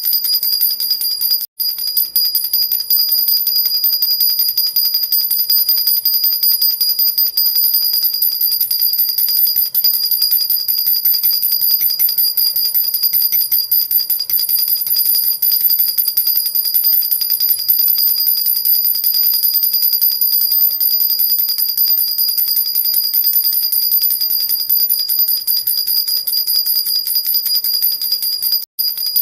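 Silver jhunjhuna (metal baby rattle) shaken nonstop, its little bells jingling in a steady, even ringing. The sound cuts out for an instant about a second and a half in and again near the end.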